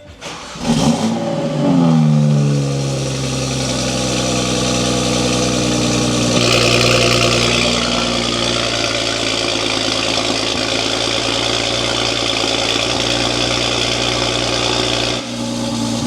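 BMW 135i's turbocharged straight-six starting through an aftermarket valved exhaust with the valve open: it flares up on start and settles into a steady idle. A hiss comes in for about two seconds around six seconds in. Near the end the sound dips briefly and changes as the exhaust valve is closed.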